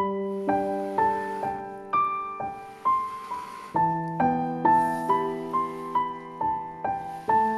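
Background piano music: a slow, gentle melody with a new note struck about every half second, each ringing on as it fades.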